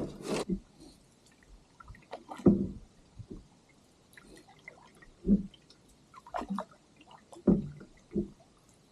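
Water splashing and dripping in short separate strokes, about one every second in the second half, like a canoe paddle dipping into calm lake water.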